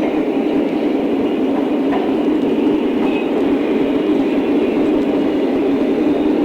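Lionel O-scale model train running on its track: a steady rumble of wheels and motor with a few faint clicks.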